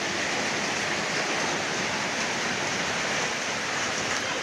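Heavy hail and rain pelting down in a hailstorm: a steady, dense crackling rush with no breaks.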